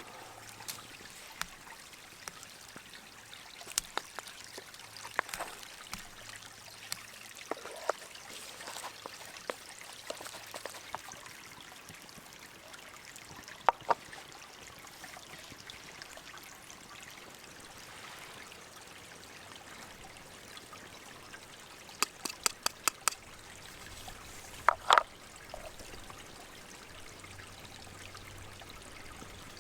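Gentle stream flowing steadily, with scattered sharp clicks and knocks over it: a quick run of clicks about two-thirds of the way through and a louder pair of knocks soon after.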